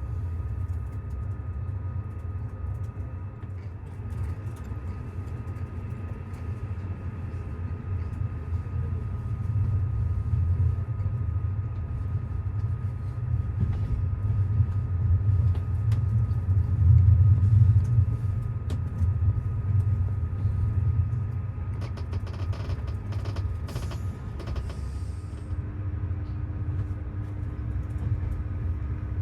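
A train running: a steady low rumble that swells about halfway through, with a short run of clicks and rattles a little later and a faint steady tone starting near the end.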